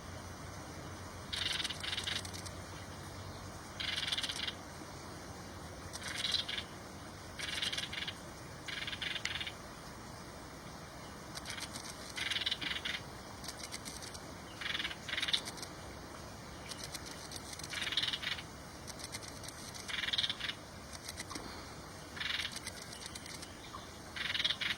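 Animal calling over and over: short rasping, pulsed calls, each about half a second to a second long, repeating every one to two seconds over a faint steady background.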